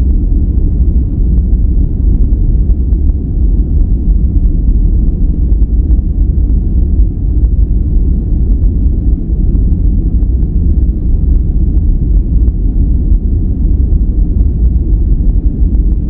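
Steady, loud noise for sleep or relaxation, with a deep rumbling character: most of it is in the bass, with little treble, nearer brown noise than true white noise. It does not change.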